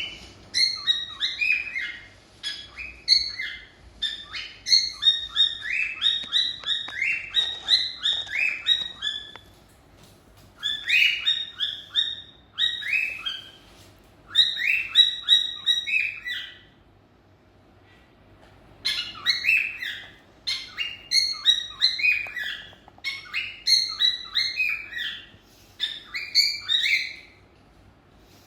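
Cockatiels chirping in quick runs of short notes, phrase after phrase of a few seconds each, with short pauses and one longer lull about two-thirds of the way through: the chatter of contented birds.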